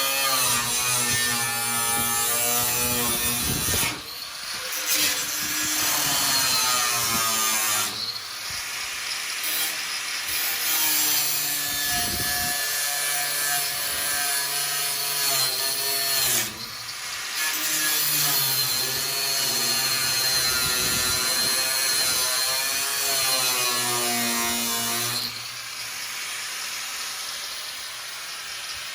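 Grinder cutting the truck's sheet-metal fender: a loud, high whine that shifts in pitch as the disc bites, with hissing, breaking off and changing several times.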